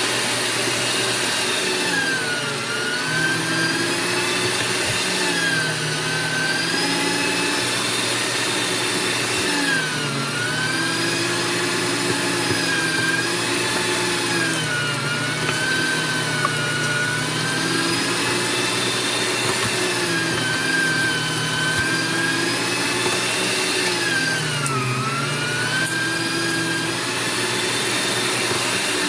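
AARTVARK TEES electric meat grinder motor running with a steady whine that drops in pitch and recovers every few seconds as pieces of beef load the auger.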